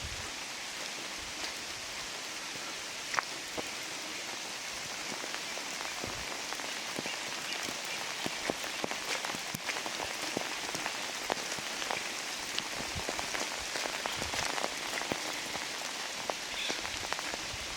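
Steady rain: a constant hiss with many separate drops landing close by, the drops coming more often from about six seconds in.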